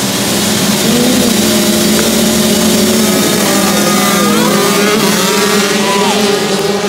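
Several dirt bike engines running at once, their pitches rising and falling as they are revved and shift.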